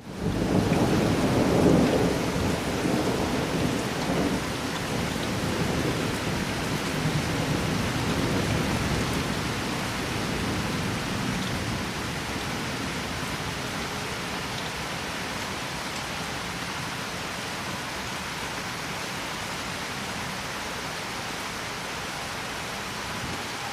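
Steady rain with a roll of thunder: the low rumble is loudest in the first few seconds and fades away over about ten seconds, leaving the even hiss of the rain.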